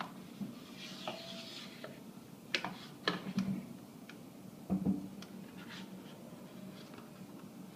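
A few scattered sharp clicks and knocks, with a brief rustle about a second in.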